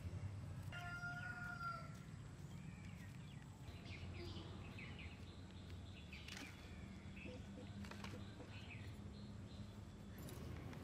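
Faint outdoor ambience: a steady low hum with birds chirping here and there, and one longer, level call lasting about a second near the start.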